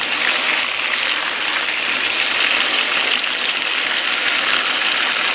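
Bacon-wrapped meatballs sizzling steadily in hot grease in a frying pan.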